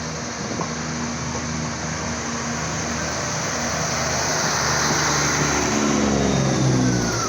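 A train pulling into the station: its motor hum grows louder, and the pitch falls over the last couple of seconds as it slows.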